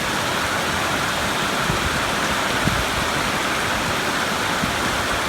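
Heavy rain falling steadily, an even hiss with a few faint taps.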